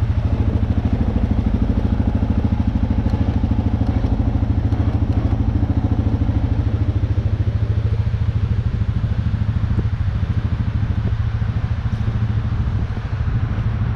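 Engine running steadily at low, even speed with a fast regular chug, easing off slightly near the end; the machine is being used to tug the fence wire tighter.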